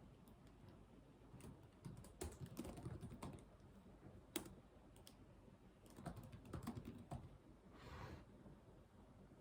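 Faint computer keyboard typing in two short bursts of rapid key clicks, with one sharper single click between them and a brief soft swish near the end.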